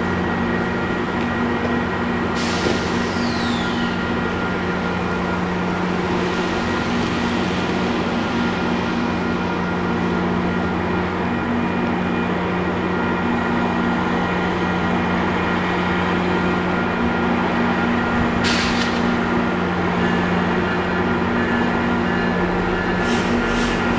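GO Transit commuter train standing at the platform, its diesel engine running with a steady drone. A short hiss of air with a falling whistle comes about two and a half seconds in, another brief hiss near 18 seconds, and a few clicks near the end.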